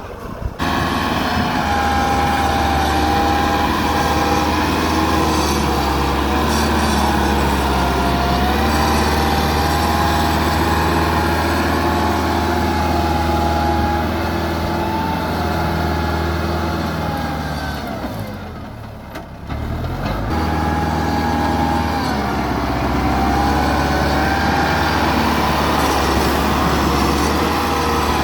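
Tractor engine running steadily under load, with a wavering whine above the engine note. About eighteen seconds in, it eases off and drops in pitch for a couple of seconds, then comes back up to the same steady note.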